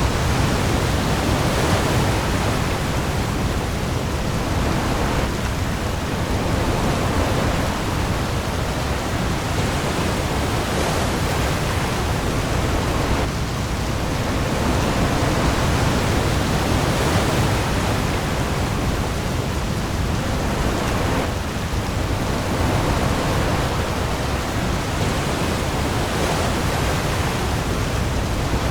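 Heavy rain pouring onto the sea with waves, a dense steady hiss that swells and eases every few seconds.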